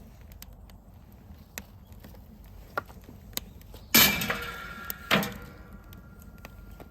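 Metal fire-pit parts clanking together twice, about a second apart, each clank leaving a ringing tone that dies away; a few light taps come before them.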